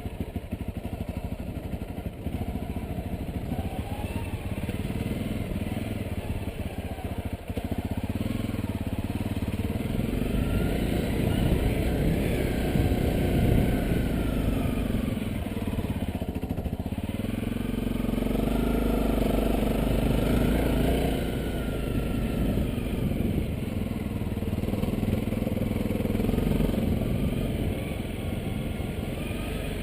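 Honda CRF250L's single-cylinder engine running as the motorcycle is ridden off-road, the revs rising and falling with the throttle and easing off briefly about halfway through.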